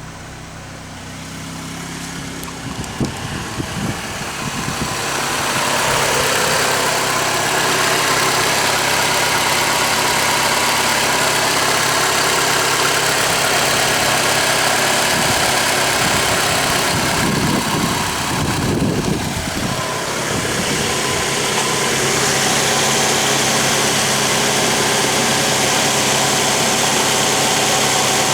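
2011 Ford Escape engine idling steadily just after an oil change, with oil pressure up. A loud steady rushing noise builds up over the first five seconds and covers most of the engine sound.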